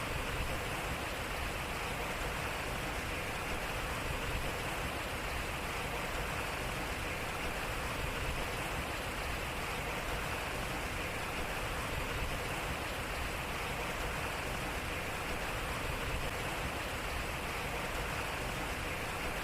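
Water running and splashing steadily off a turning water wheel.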